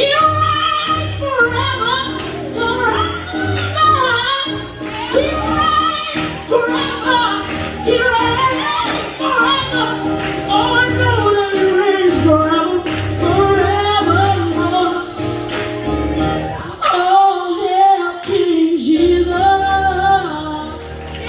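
Worship song sung by a high voice over a musical accompaniment with a steady bass line; the bass drops out briefly near the end.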